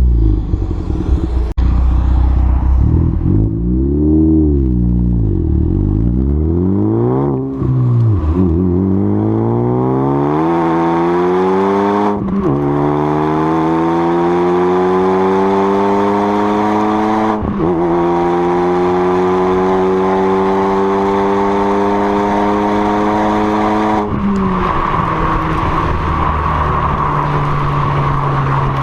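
2013 Ford Focus ST's turbocharged 2.0-litre four-cylinder through a catless downpipe and CNT catback exhaust, rising and falling in revs a few times, then pulling hard with a long rising note broken twice by brief gear-change gaps. About five seconds before the end it backs off to a steady, lower drone.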